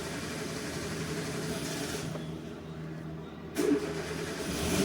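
Hyundai i20 car engine idling steadily, with a sudden short knock about three and a half seconds in.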